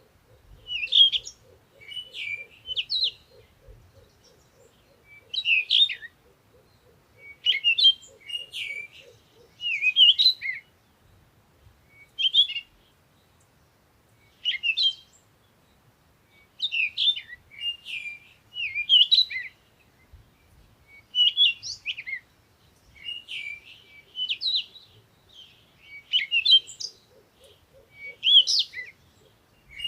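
Songbirds singing at dawn in short, varied high-pitched phrases separated by brief pauses. A faint low, rapid pulsing runs underneath in the first third and returns near the end.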